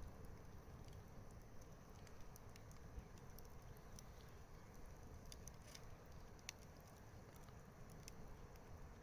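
Wood campfire crackling faintly, with scattered small pops over a soft steady background.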